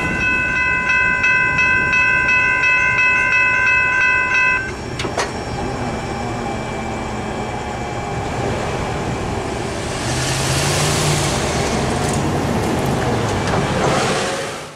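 Freight train cars rolling past with a steady rumble and rail noise. Over it a railroad crossing warning bell rings rapidly and stops about four and a half seconds in.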